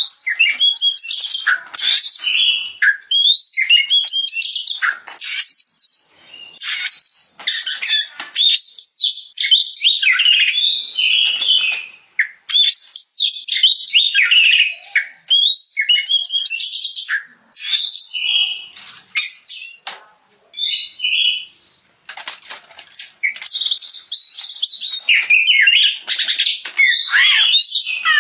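Oriental magpie-robin (kacer) singing a long, varied song of clear whistles and quick chattering notes, with a few short pauses between phrases. It is a full, open song (ngeplong).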